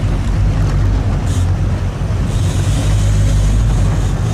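Fishing boat's engine running steadily at trolling speed, a low hum under wind and water noise, with a brief hiss about a second in.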